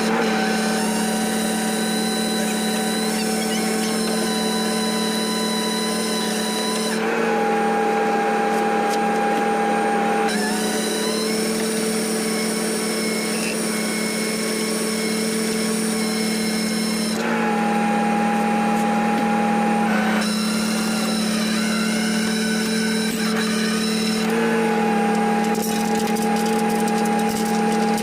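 Rollback tow truck's hydraulics running with a steady whine and hum, the tone shifting every few seconds as the load changes.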